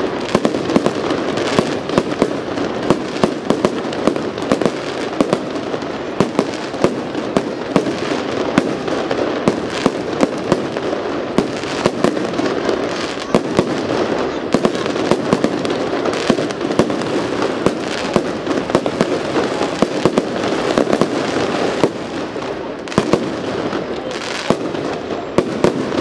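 Fireworks display: a rapid, continuous barrage of aerial shell bursts and crackle, many sharp bangs in quick succession over a steady rushing hiss.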